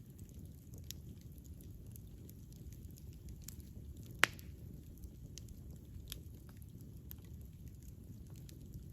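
Wood campfire burning: a low, steady rumble of flames with scattered small crackles, and one loud, sharp pop about four seconds in.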